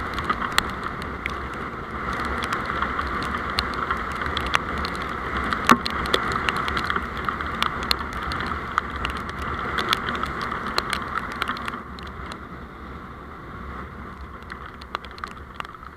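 Steady running noise of a moving road vehicle, with many scattered sharp ticks over it. The noise drops in level about twelve seconds in.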